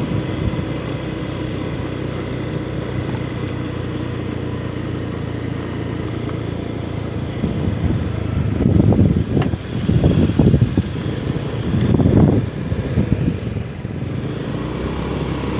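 A motor vehicle running steadily, with several louder bursts of rough low rumble in the second half.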